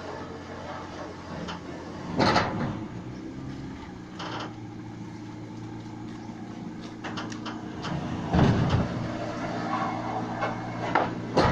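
An engine running steadily, with three loud clunks: about two seconds in, about eight seconds in, and near the end.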